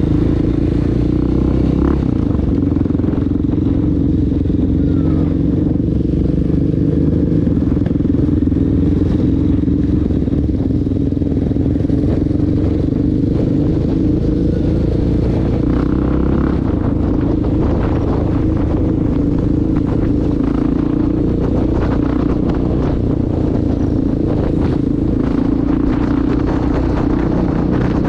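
Honda XR650L dirt bike's single-cylinder four-stroke engine running at a steady cruising speed while riding on the street.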